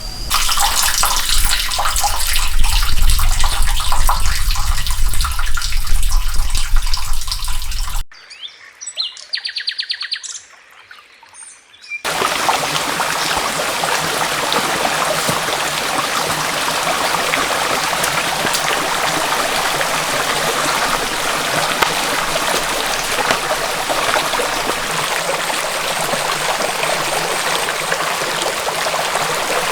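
Water of a forest stream rushing. About eight seconds in it cuts to a much quieter stretch of birds chirping, then the steady rush of flowing water returns for the rest.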